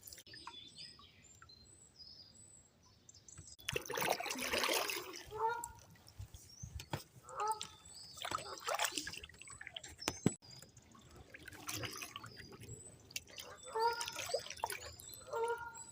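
Canoe paddle strokes splashing and trickling in canal water, one about every three to four seconds, with birds calling between them.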